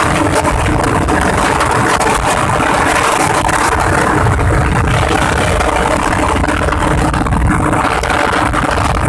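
Small motorcycle engines running steadily at speed, a continuous engine roar with no pauses.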